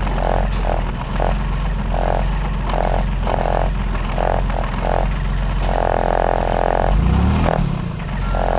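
Diesel engine of a Timberjack forwarder running steadily, with a repeated stop-start whine over it, each whine lasting from a moment to about a second. There is a brief rise and fall in pitch near the end.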